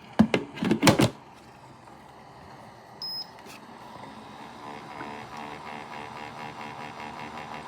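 A few sharp knocks of handling, one short high beep about three seconds in, then a steady hum that grows slightly louder, from a cool-mist humidifier being set up and switched on.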